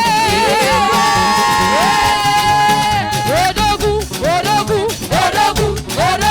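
Lively church praise music from a choir and band with a steady, dance-like beat. A melody line is held with vibrato at first, then gives way to short rising phrases about halfway through.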